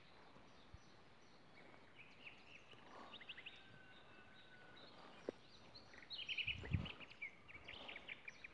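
Small songbirds chirping faintly in short scattered bursts, busier about three seconds in and again near the end. A brief low thump comes with the second burst.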